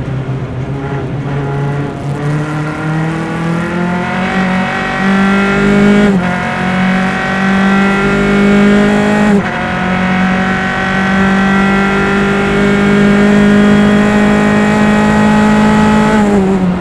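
Single-seater race car's engine, heard from the onboard engine mics, accelerating hard. The pitch climbs, drops sharply at two upshifts, then rises in a long steady pull before falling away near the end as the driver lifts.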